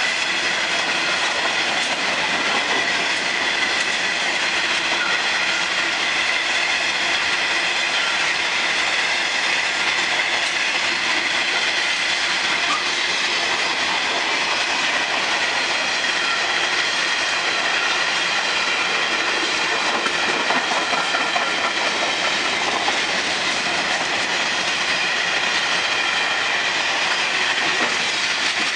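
Freight train of hopper wagons rolling past at close range: a continuous rumble and clatter of wheels on rail, with a steady high-pitched squeal of wheels running through it.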